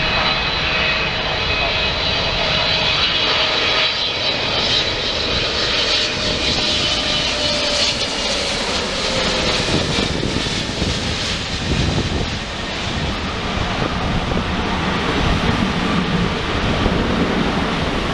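Wide-body jet airliner's engines as it passes close by: a steady, loud jet roar with a high whine that sinks slightly in pitch during the first half.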